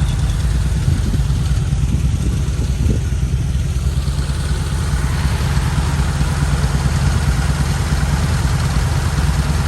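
Old-body-style Ford F-150 engine idling steadily on a newly replaced fuel pump, running again after sitting for 22 years.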